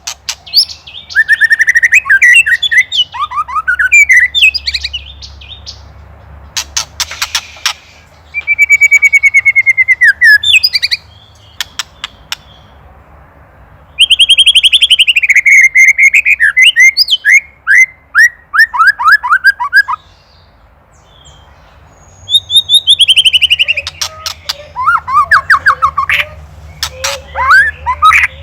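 White-rumped shama (murai batu) singing loud, varied phrases of whistled slurs and trills, broken up by fast, dry rattling 'ketrekan' calls, the agitated rattle it gives at a predator. It falls briefly quiet twice.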